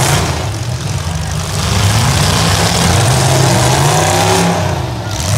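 Several demolition derby cars' engines running and revving together, one engine rising in pitch about four seconds in.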